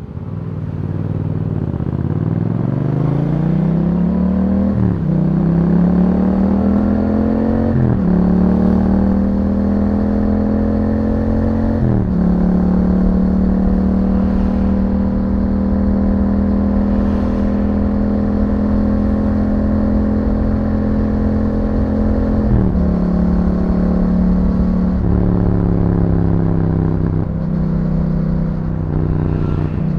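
Yamaha MT-07's parallel-twin engine through an Akrapovic exhaust, accelerating hard through the gears with three upshifts in the first dozen seconds. It then cruises at a steady pitch for about ten seconds before two more gear or throttle changes near the end.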